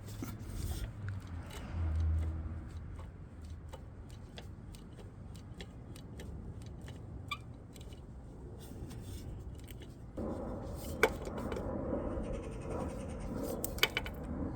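Hand tools clicking and scraping on metal, with a louder, busier stretch of clicks and rattling from about ten seconds in.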